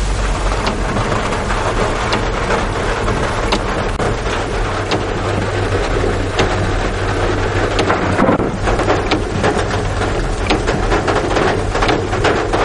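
Heavy rain falling: a dense hiss with many sharp drop hits close by, over a steady low rumble.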